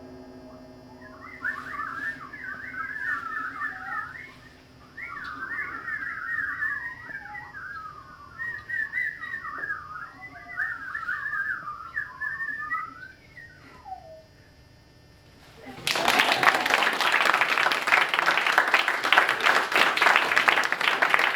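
Fast warbling, trilling whistle, like an imitated birdsong, fluttering rapidly up and down in pitch for about thirteen seconds, as a gong's ringing fades out at the start. After a short pause, loud applause breaks out about sixteen seconds in.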